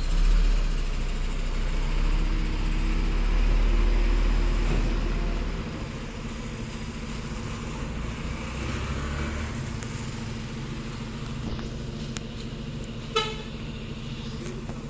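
Garbage truck engine running with a heavy low rumble that eases off about five seconds in, then runs on more quietly. A brief horn toot sounds near the end.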